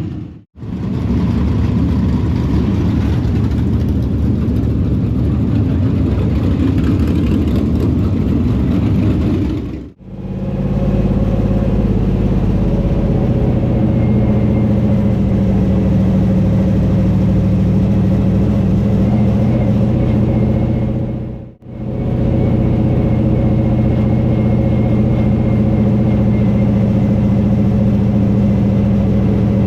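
Dirt late-model race car engine running hard and steadily, in three stretches each broken off by a sudden cut; in the later two a steady engine tone stands out.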